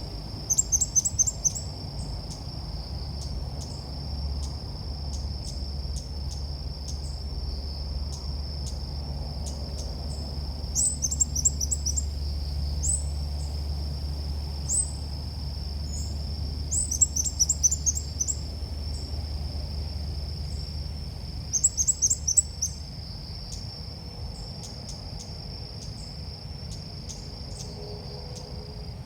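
Ốc mít bird calls, a bulbul's lure song: clusters of quick, high chirps coming every few seconds, over a steady, high-pitched insect drone like crickets.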